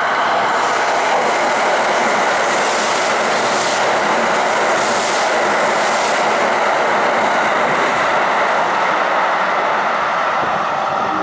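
Kintetsu 80000 series Hinotori limited express electric train passing the platform at speed. A loud, steady rush of wheel and running noise, with a repeating clatter as the wheels cross rail joints.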